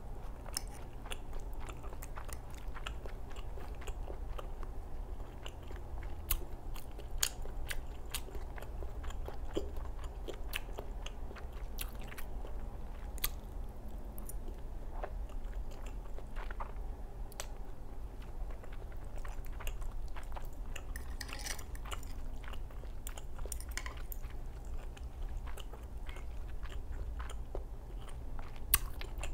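Close-miked chewing and lip-smacking of a person eating cream spaghetti and salmon salad, with many small wet mouth clicks. There is a sharper, louder click near the end and a steady low hum underneath.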